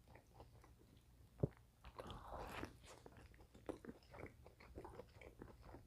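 Faint close-miked chewing of a burger: soft wet mouth clicks and smacks, with one sharper click about one and a half seconds in and a brief louder bite around two seconds.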